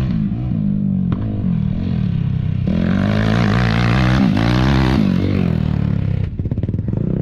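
Off-road vehicle engine running and revving, its pitch rising and falling. It grows louder and harder from about three seconds in, then eases off near the five-second mark.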